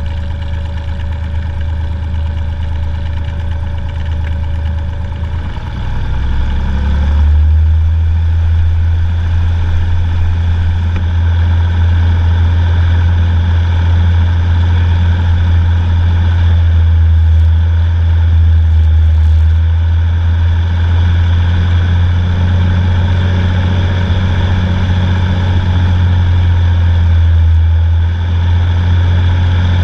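Cessna 182's piston engine and propeller heard from inside the cabin, running steadily. About six seconds in, the power comes up and the engine settles into a louder, steady drone.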